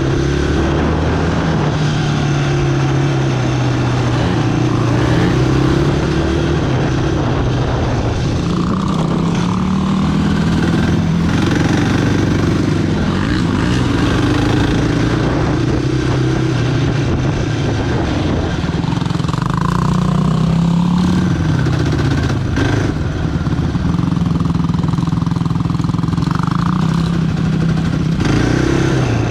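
Sport quad's single-cylinder engine running under throttle while riding, its pitch rising and falling repeatedly as it accelerates and eases off.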